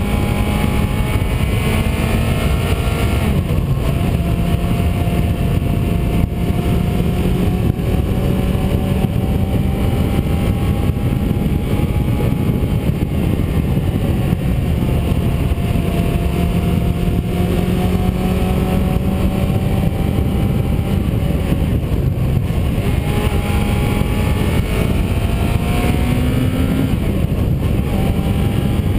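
A vehicle engine pulling as it is driven, its note slowly climbing and then dropping suddenly at gear changes about three seconds in and again near the end, over heavy road and wind rumble.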